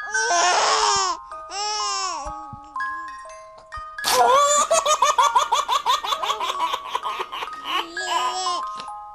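A baby squealing and cooing, then, about four seconds in, breaking into a long run of rapid laughter. Soft music with held notes plays underneath.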